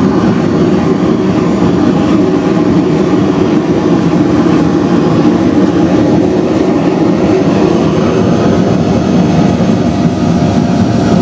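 Foundry furnace burning on propane, fed by a vacuum-cleaner-motor blower: a loud, steady rushing rumble of burner flame and blown air, with a faint steady whine over it.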